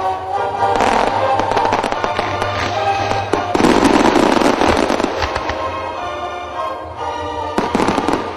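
Fireworks exploding in rapid crackles and bangs over music, densest about halfway through, with another flurry near the end.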